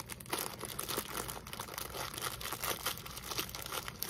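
Crinkling of a plastic cracker sleeve as it is handled and opened, a run of irregular crackles.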